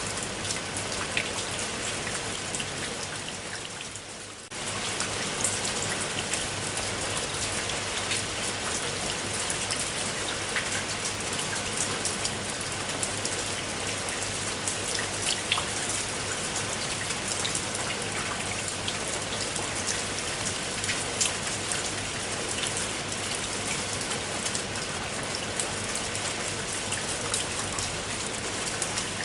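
Steady rain, with many individual drops ticking on a surface. About four seconds in it briefly fades down, then comes straight back at full level.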